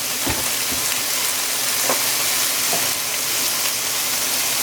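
Sliced vegetables sizzling in oil in a frying pan: a steady frying hiss, with a few faint light ticks.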